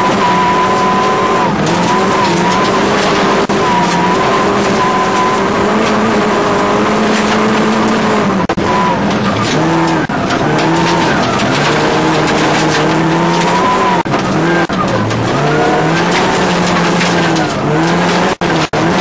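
Old Opel rally car's engine heard from inside the cabin, driven hard at high revs. Its pitch climbs and drops several times through gear changes and lifts off the throttle, with tyre noise on gravel underneath.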